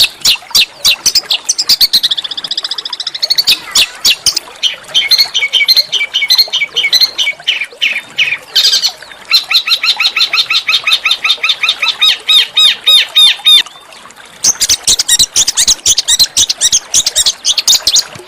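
Small songbirds singing a harsh, rapid song of fast chattering clicks and wavering whistled notes. About halfway through comes a long trill of evenly repeated notes, which breaks off briefly before the fast chatter resumes.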